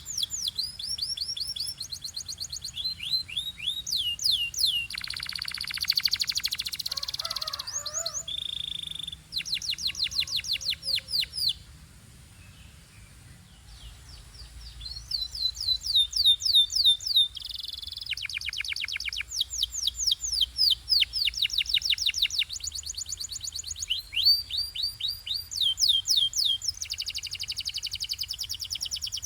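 Domestic canary singing in fast rolling trills, each a run of quickly repeated high rising notes, with a brief steady whistled note and a pause of about two seconds near the middle.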